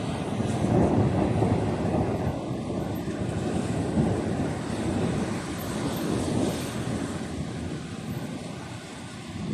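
Long roll of thunder: a low rumble that swells to its loudest about a second in, then slowly fades away over several seconds.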